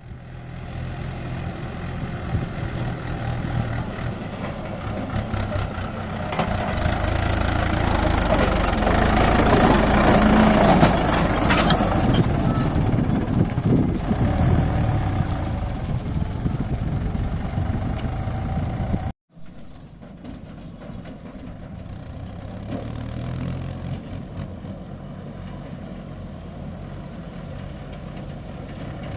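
A tractor's diesel engine runs under load, pulling a loaded trolley. It grows louder for several seconds, breaks off abruptly about two-thirds of the way through, then carries on quieter.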